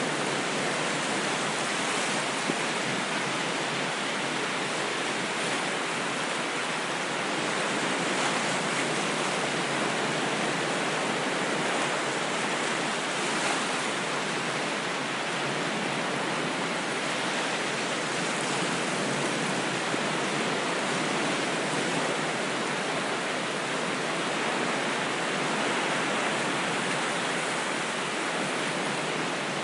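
Ocean waves washing in a continuous, even rush, with only slight slow swells in loudness.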